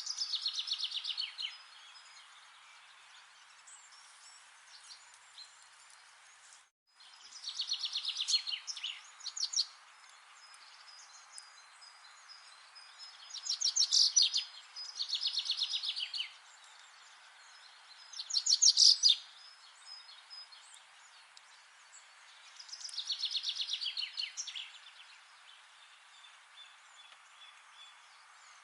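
Songbird song: a fast trill of rapid notes that drops in pitch, repeated about six times with pauses of a few seconds between, over a faint steady hiss.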